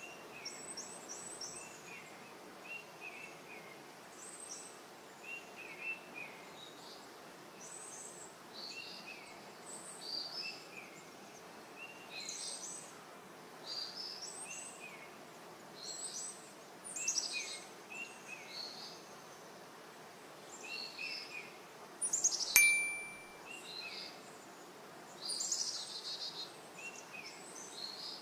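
Songbirds chirping and calling in short, repeated phrases over a faint steady outdoor hiss. About two-thirds of the way through, a single sharp click with a brief ringing tone stands out as the loudest sound.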